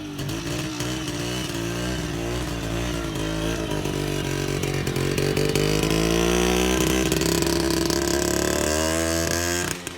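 Motorcycle engine running close by, its engine speed climbing about halfway through and then holding high. The sound drops away abruptly just before the end.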